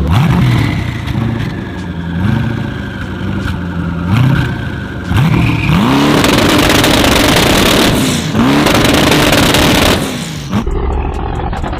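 A car engine revved in several short blips, then held at high revs twice for about two seconds each, with a drop in pitch between and after.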